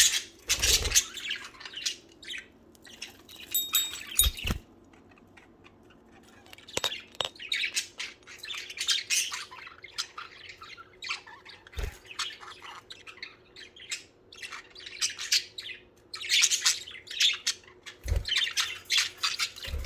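Pet budgerigars chattering and squawking in repeated bursts, with a few dull low thumps in between.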